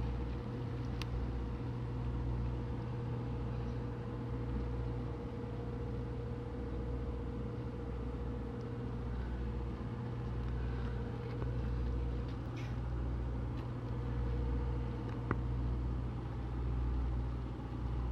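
Electric bus's machinery giving a steady low hum, with a steady whine over it that fades out about three-quarters of the way through.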